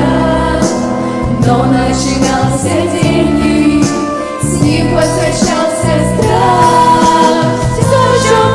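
A pop vocal group singing a song over a backing track with a steady beat.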